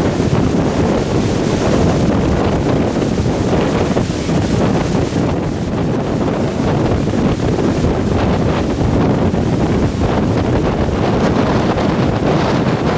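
Strong gusting wind buffeting the microphone, a loud, continuous rumbling blast with no break.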